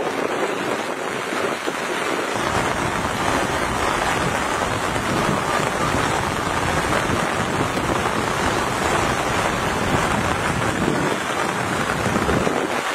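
Heavy monsoon rain falling steadily, a dense hiss; about two seconds in a deeper rumble joins it.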